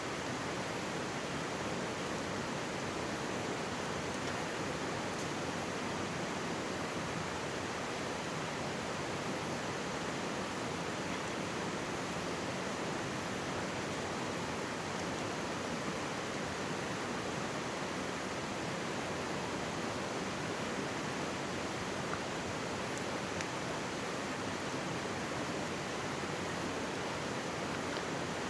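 Mountain stream babbling steadily, its rushing water filling the sound evenly, with an occasional faint crackle from a wood campfire.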